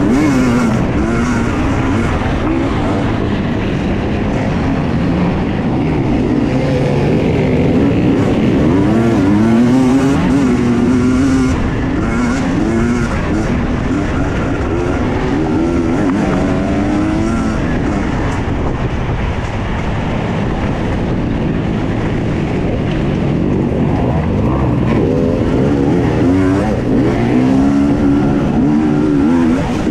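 Husqvarna TE 250i two-stroke enduro motorcycle engine revving up and down over and over as it is ridden hard.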